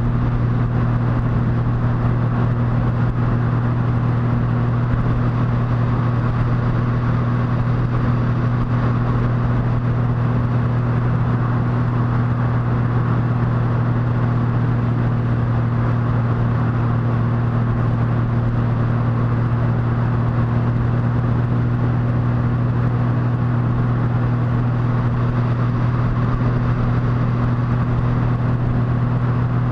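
Motorcycle engine running at a steady, unchanging pitch while cruising at constant speed, over steady wind and road noise.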